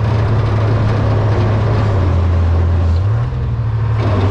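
1978 Hein-Werner 25-ton excavator's diesel engine running under load as it digs, its note dropping lower for about a second near the middle as the hydraulics pull it down, then picking back up.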